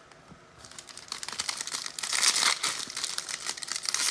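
A trading card pack's wrapper being torn open and crinkled by hand, starting about half a second in as dense crackling that grows louder around the middle and again near the end.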